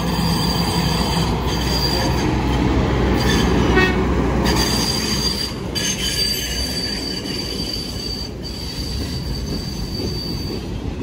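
A hi-rail semi truck runs along the track pulling a string of steel gondola cars, its diesel engine a low rumble under the rolling cars. Steel wheels squeal thinly and steadily on the rails, and the cars clatter over the track as they pass.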